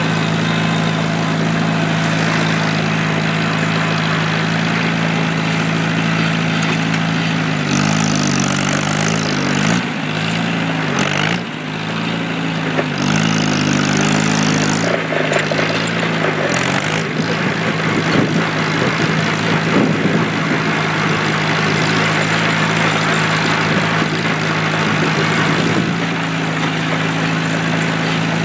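1947 Allis-Chalmers C tractor's four-cylinder engine running steadily. From about 8 to 16 seconds in, its speed rises and falls several times, with a few short bursts of hissing noise, then it settles back to an even run.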